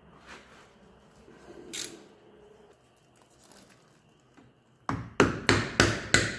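Faint clicks and taps, then about five seconds in a fast, even run of loud sharp knocks, about three a second.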